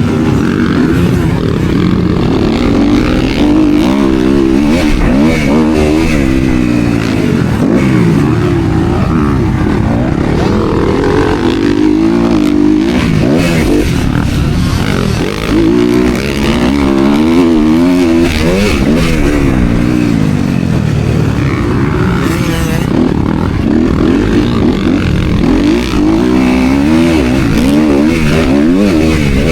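Motocross dirt bike engine revving hard, its pitch climbing and dropping again and again as the rider accelerates, shifts and backs off around the track. The loudness dips briefly about halfway through.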